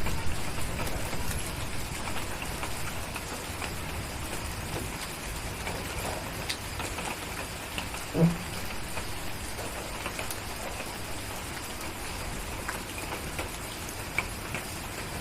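Steady rain with scattered small crackles and clicks, and one short low pop about eight seconds in.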